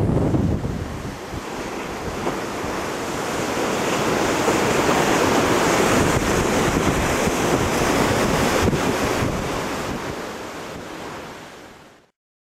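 High storm waves breaking against a breakwater, a steady wash of surf that swells in the middle and fades away near the end, with strong wind buffeting the microphone.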